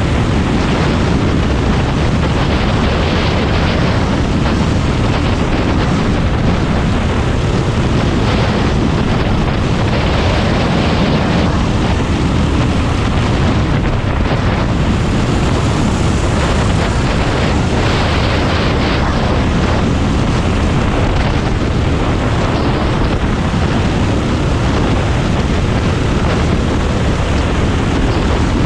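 Predator 390 single-cylinder racing kart engine running hard at race speed, a loud, dense and unbroken sound with no let-up.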